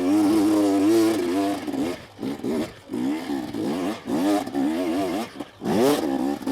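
KTM 250SX two-stroke single-cylinder dirt bike engine running with a wavering pitch, then revved in a string of short throttle bursts with the throttle chopped between them from about two seconds in.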